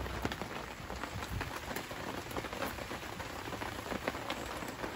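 Steady rain falling on garden plants and wet ground: an even hiss dotted with many small drop ticks.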